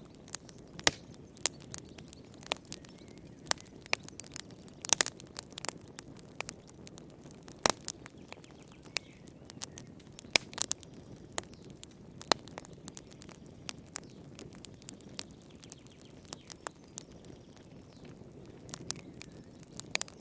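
Wood fire in a fireplace crackling: irregular sharp pops and snaps, some louder than others, over a soft steady low rush.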